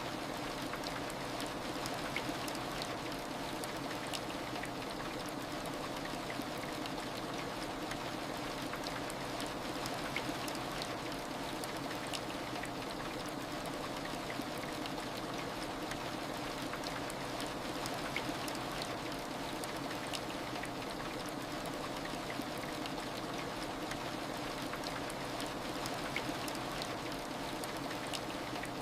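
Steady heavy rain: an even hiss with scattered faint drop ticks.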